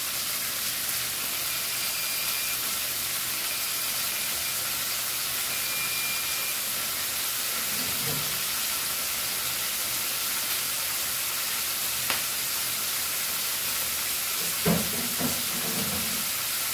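Chopped onion, tomato and green chilies sizzling steadily in hot oil in a nonstick kadai, with a brief soft knock or two near the end.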